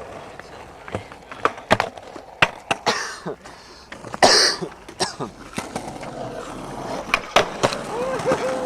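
Skateboard rolling on concrete, with a string of sharp clacks and knocks from the board and wheels hitting the ground, and a loud scraping burst about four seconds in.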